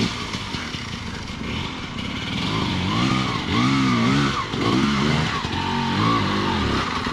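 Dirt bike engine running, revved up and down about five times in quick succession through the middle, then settling back.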